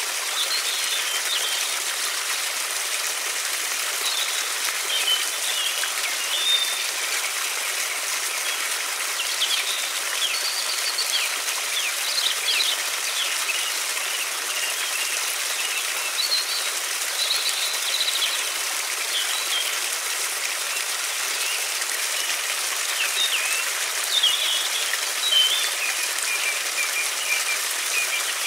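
Steady rush of a flowing river, with small songbirds chirping now and then over it.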